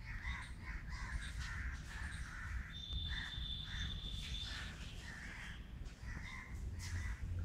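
Bird calls: a run of short, harsh calls, about two a second, with a thin steady whistle held for about two seconds near the middle, over a constant low rumble.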